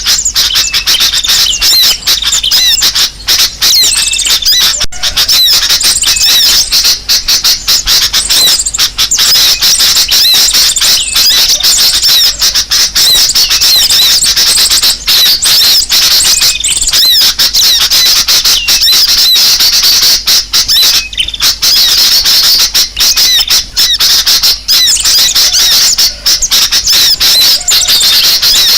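Bird-lure recording of many small birds calling in agitation: a loud, dense, unbroken chorus of quick high-pitched chirps, twitters and trills, used to draw wild birds close.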